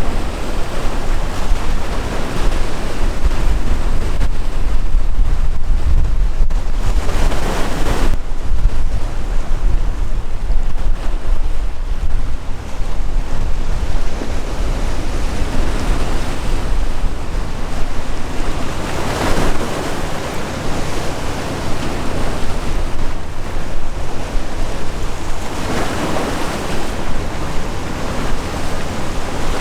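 Sea waves surging and breaking, with strong wind rumbling on the microphone. Bigger waves swell up about 7, 19 and 26 seconds in.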